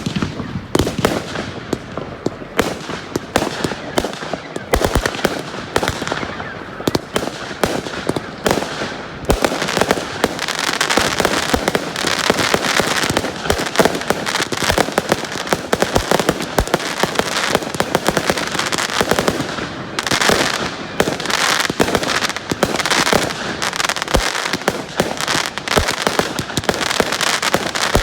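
Fireworks going off in rapid succession: many sharp bangs, one on top of another, over continuous crackling. It starts suddenly after a quieter moment.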